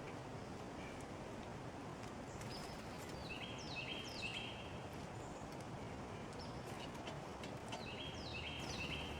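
A songbird calling a repeated two-note phrase, a high falling note followed by a lower steady one, about three times in a row and then again near the end, over steady outdoor background noise.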